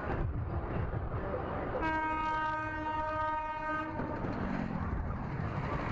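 A single long horn blast of about two seconds, one steady pitch, over continuous traffic and road noise.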